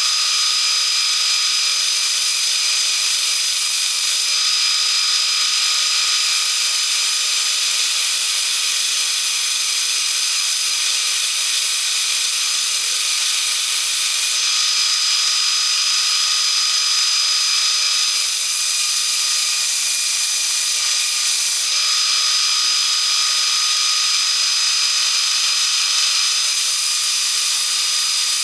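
Linisher (belt sander) running a 320-grit belt with the steel hatchet head held against it: a steady grinding hiss over a constant high whine. The grinding sound shifts every few seconds as the head is moved or pressed harder on the belt.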